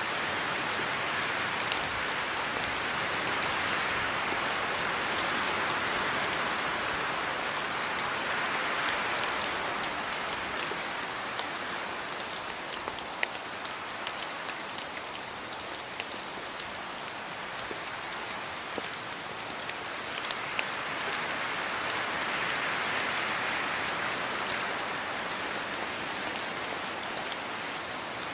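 Steady rain falling, a dense hiss strongest in the upper middle range, with many scattered sharp ticks of individual drops striking surfaces. It eases slightly midway and builds again near the end.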